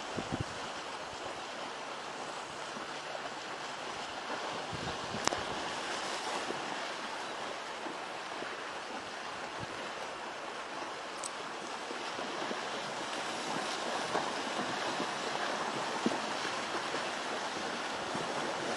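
Steady rushing of river water, with two brief sharp clicks about five and eleven seconds in.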